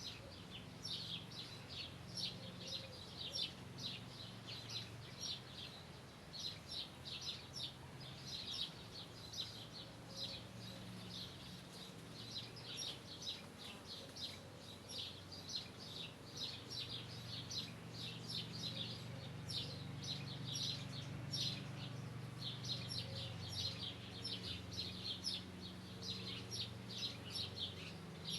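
Birds chirping continuously in a dense run of short, high chirps, with a faint low hum underneath.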